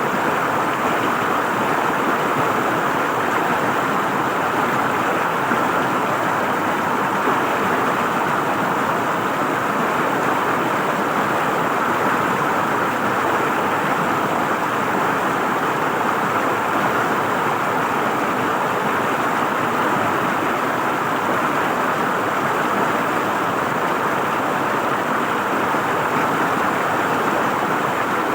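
River water flowing and gurgling over rocks: a steady rushing with no pauses or changes.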